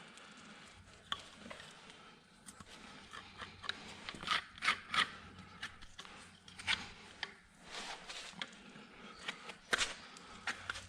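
Farrier's hand tools working a horse's hoof: irregular scraping and cutting strokes with a few sharper clicks, the loudest about four to five seconds in.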